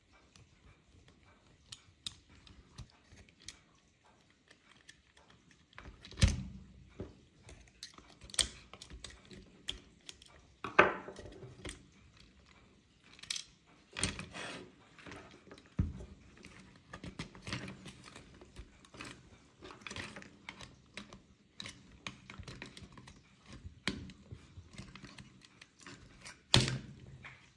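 Tools and small metal parts of an antique hair dryer being handled during repair: irregular clicks, clinks and knocks, sparse at first and busier after about six seconds, the loudest about six seconds in, near eleven seconds and near the end.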